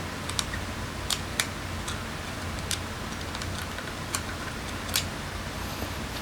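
Irregular light clicks and ticks of small metal parts and hand tools being handled during carburetor work, over a steady low hum.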